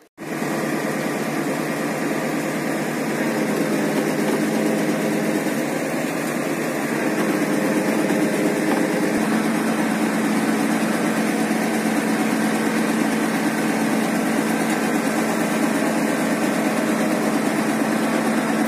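An engine running steadily, its low hum growing a little stronger about seven seconds in.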